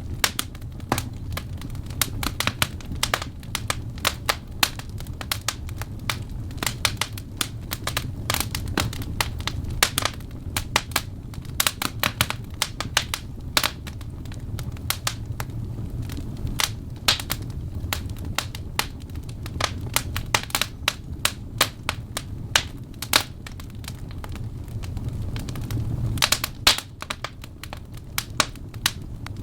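Wood fire burning, logs crackling and popping in dense irregular snaps over a steady low rumble of the flames.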